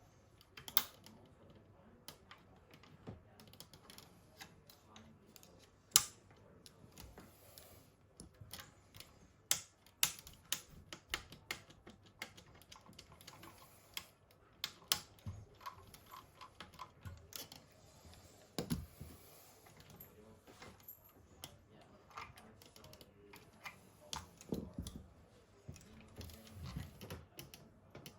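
Irregular light clicks and taps of small parts and tools being handled during hands-on work on an RC model half-track, with a sharper knock about six seconds in.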